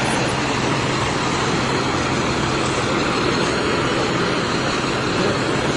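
Steady noise with a low, even hum underneath, typical of a motor vehicle's engine running.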